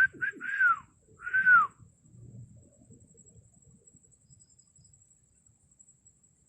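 An animal call: three loud notes in quick succession, each rising then falling in pitch, all within the first two seconds.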